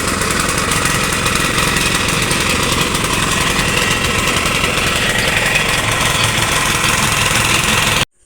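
Electric kitchen blender's motor running steadily and loudly, stopping abruptly near the end.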